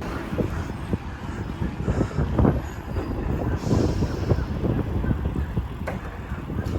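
Mountain bike being ridden uphill: a continuous rumble of wind and movement on the microphone with irregular knocks and rattles.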